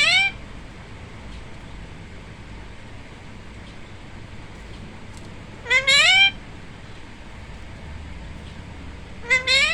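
Pet parrot calling: three short, loud rising calls, each made of two or three quick notes, a few seconds apart.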